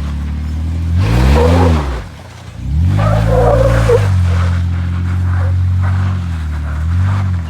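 Off-road 4x4 engine revving up and down over its idle. It rises and falls about a second in, climbs again near three seconds and holds there before dropping back around six seconds, then gives a short blip near the end.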